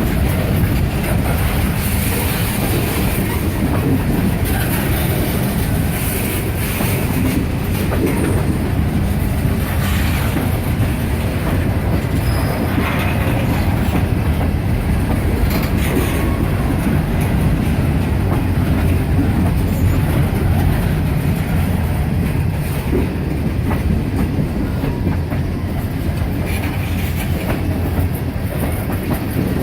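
Freight cars of a slow CSX manifest train rolling past, with steady rumbling, wheels clicking over rail joints and occasional wheel squeal.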